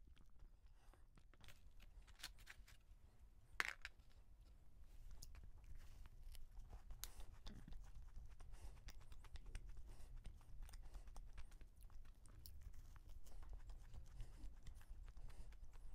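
Close-miked chewing of a soft donut with a crumbly cookie topping: small crunches and wet mouth sounds, busier from about four and a half seconds in. A single sharp click about three and a half seconds in.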